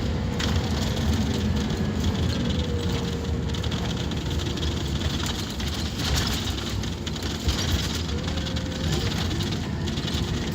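Scania K230UB Omnilink single-deck bus running under way: a steady, heavy low rumble from its engine and drivetrain, with a faint whine that glides in pitch twice.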